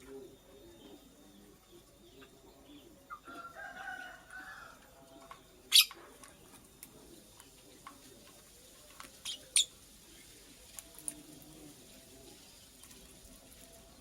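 Purple lovebird giving a few short, sharp, high chirps, the loudest about six seconds in and more around nine and eleven seconds. A longer, lower drawn-out call comes about three seconds in.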